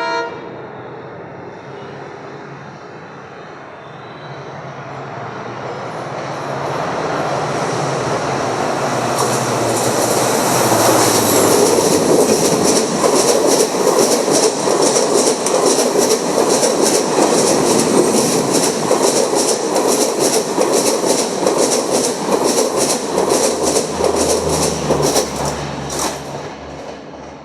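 Express passenger train hauled by a WDP-4D diesel locomotive passing at speed: a rumble builds as it approaches, then the coach wheels keep up a fast, even clickety-clack over the rail joints, dying away near the end.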